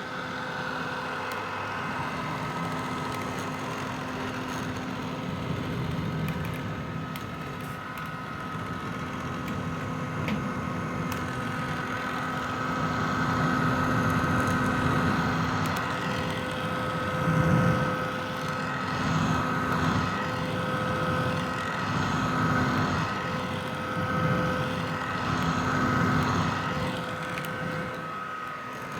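Vintage hair dryer running steadily: an airy rush of blown air over a constant motor whine. In the second half the level swells and dips gently.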